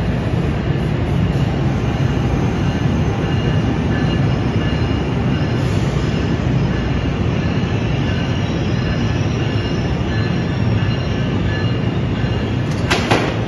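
New Jersey Transit commuter train rolling past in an enclosed underground station: a steady low rumble of wheels on rail, with a faint thin wheel squeal over it. A sharp click comes near the end.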